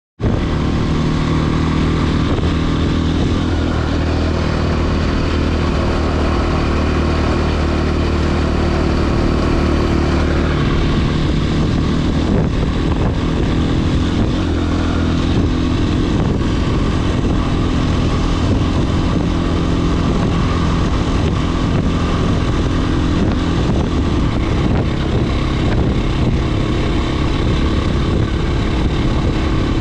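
Husqvarna FE 501s single-cylinder four-stroke dirt bike engine running steadily as the bike is ridden, its note changing about ten seconds in.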